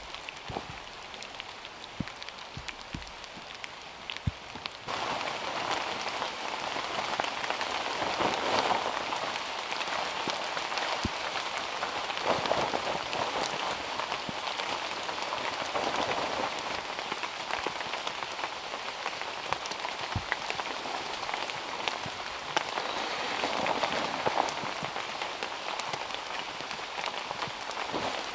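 Rain falling on rainforest foliage: scattered drips for the first few seconds, then, about five seconds in, a sudden jump to a steady heavy downpour with individual drops pattering through it.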